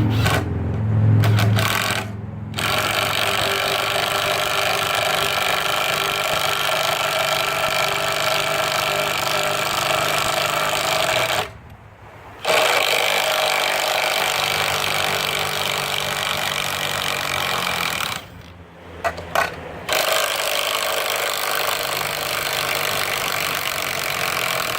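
Ryobi P234G 18-volt cordless impact driver hammering as it drives 2.5-inch lag screws into wood, in long runs broken by short pauses about two seconds in, about twelve seconds in and near nineteen seconds in.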